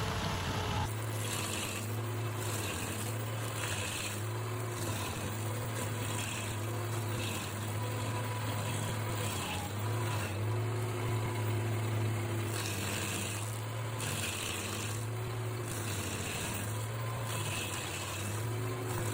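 Stump grinder's engine running steadily under load, with repeated short bursts of higher grinding noise as its toothed cutting wheel chews into the wood of a stump.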